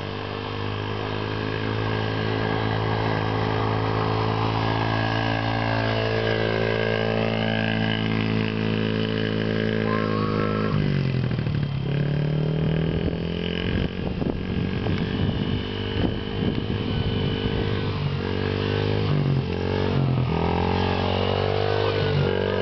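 Small motorcycle engine running, its revs rising and falling. The pitch dips and climbs again about halfway through and again near the end.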